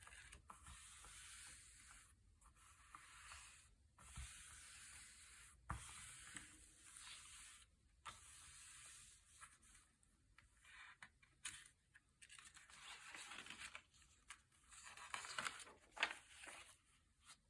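Thick, glossy paper pages being turned one after another: soft swishing rustles with short pauses between them, and a few sharper snaps of the paper, the loudest near the end.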